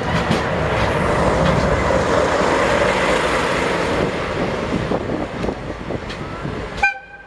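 Train of steam locomotive D51 498 and six 12-series coaches moving past: a rushing rolling noise that swells and then slowly fades, with scattered sharp clicks. A brief pitched tone sounds near the end, just before the level drops suddenly.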